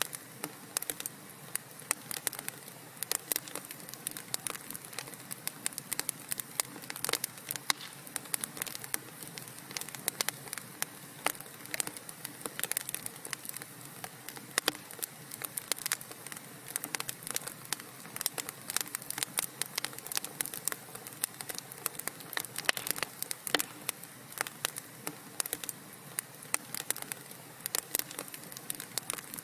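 Wood fire in a fireplace crackling: dense, irregular pops and snaps over a soft hiss of burning.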